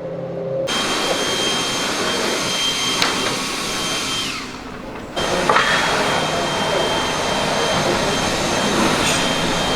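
Steady whooshing air noise with a thin, constant high whine, like a fan or air blower running. It starts abruptly about a second in, drops away briefly around four seconds in and comes back sharply about five seconds in.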